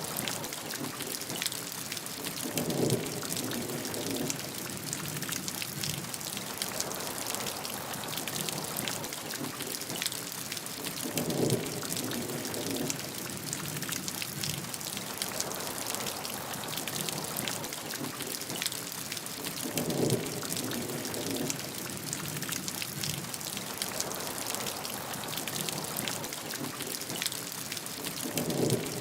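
Steady rain falling, dense with the small ticks of individual drops. A brief, lower, fuller splash or rumble comes back four times, evenly spaced about eight or nine seconds apart.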